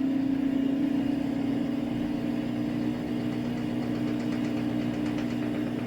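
Samsung AddWash front-loading washing machine running in its first spray rinse: a steady mechanical hum that holds the same pitch throughout.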